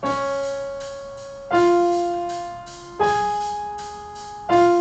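Piano playing a short four-note melodic pattern, one note about every second and a half, each struck and left to ring and fade: it steps up over the first three notes and drops back to the second note's pitch on the fourth. It is a pattern in F sharp major, played as a model to be listened to and played back.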